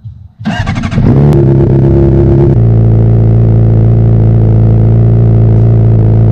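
Honda CBR600RR's inline-four engine being started: a brief burst of cranking about half a second in, then the engine catches and settles into a steady idle, dropping to a lower, even idle about two and a half seconds in.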